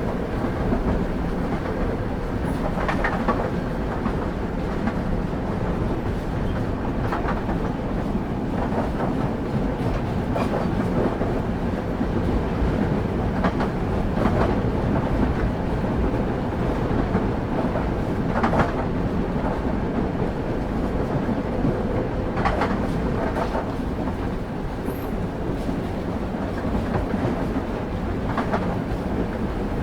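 Railway carriage rolling along, heard from on board: a steady low rumble of wheels on rails, with about ten sharp clicks at uneven intervals as the wheels pass over rail joints.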